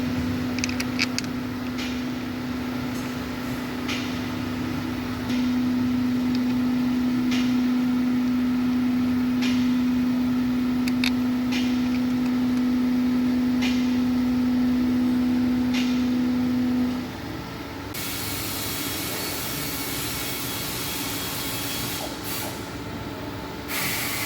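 A steady low hum with scattered light clicks, getting louder about five seconds in and stopping after about seventeen seconds. Then a loud hiss starts, breaks off briefly and resumes near the end.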